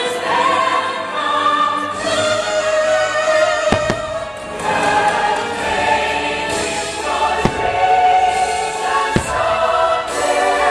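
Choral show music with a choir singing sustained notes, broken by three sharp bangs of fireworks bursting, about a third of the way in, past the middle, and near the end.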